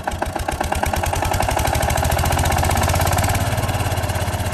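Stationary diesel engine of an irrigation pump set running with a rapid, even knocking beat, getting louder about a second in.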